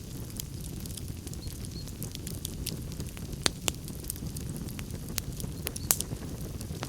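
Wood fire crackling in a fireplace: irregular sharp pops and snaps over a steady low rumble, with a few louder pops about halfway through and near the end.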